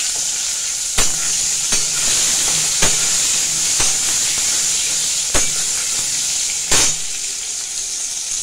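Potato and tomato pieces sizzling steadily in hot mustard oil in a metal kadai, while a metal spatula clicks and scrapes against the pan about once a second as they are stirred.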